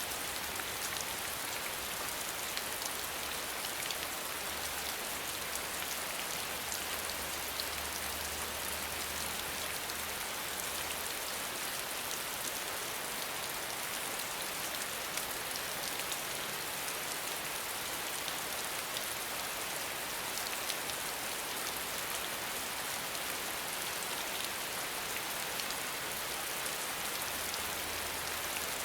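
Steady rainfall: an even, dense patter of many raindrops that holds at the same level throughout.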